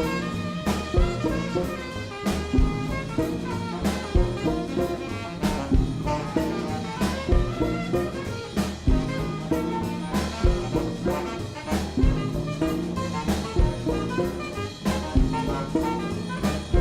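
Jazz music with brass horns over a drum kit keeping a steady beat.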